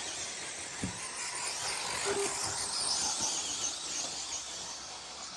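Several 1/10-scale RC short course trucks racing around the track, with the high, wavering whine of their motors and a few faint knocks.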